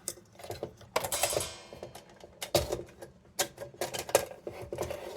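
Metal parts of a vintage tin kerosene lantern clicking and clanking as they are handled, with one knock about a second in ringing briefly.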